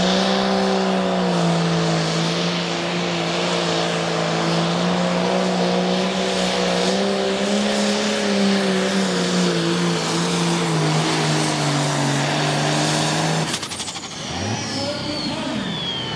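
Pro Farm pulling tractor's turbocharged diesel engine held at full throttle under load while it pulls the sled. It runs at a fairly steady pitch with a high turbo whine on top. About 13 seconds in, the engine note cuts off suddenly and the turbo whine winds down.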